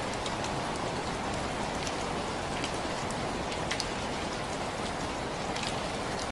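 Steady rainfall, an even hiss with scattered individual drops ticking sharply on a hard surface.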